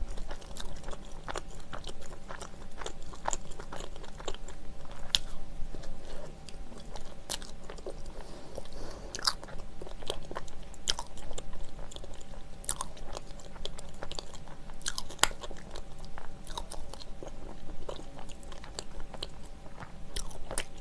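A person chewing a mouthful of soft, chewy bread filled with melted cheese close to the microphone, with many small irregular wet mouth clicks.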